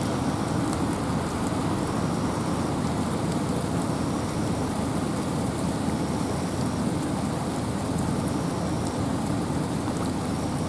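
Steady wind and rain in a forest: a constant low rumble of wind under the hiss of rain and scattered drops. A faint, short high peep recurs every second or two.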